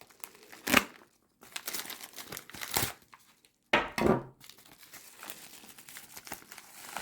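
Padded mailing envelope and its packing crinkling and rustling as it is handled and pulled apart, in uneven bursts with a few louder crinkles.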